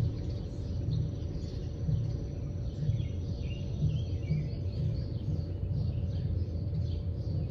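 Outdoor ambience of songbirds chirping in short calls, clearest a few seconds in, over a steady low rumble.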